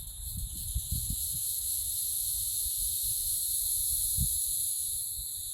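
Insects chorusing: a steady, high-pitched, buzzing drone in several layered pitches, easing slightly near the end, over a low fluttering rumble.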